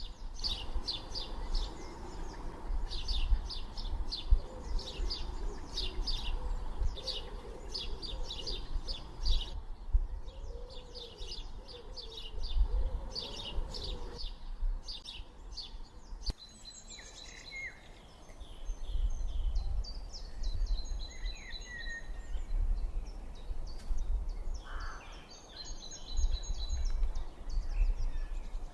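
Several songbirds singing and chirping: quick repeated high trills at first, then different, more whistled calls after an abrupt change about halfway through, over a steady low rumble.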